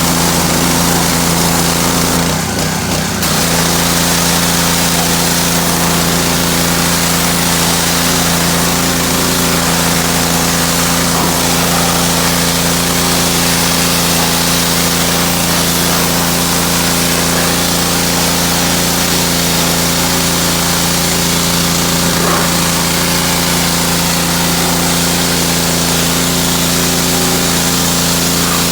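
Pressure washer running steadily, its motor hum under the hiss of the water jet, with a brief break about two and a half seconds in.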